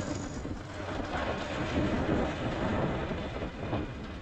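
Steady road noise of a motorcycle ride in city traffic: engine and passing traffic blended into a continuous rumble, with no single sound standing out.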